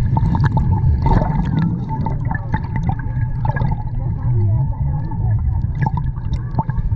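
Water sloshing and gurgling right at the microphone, with a heavy low rumble and scattered small splashes and drips.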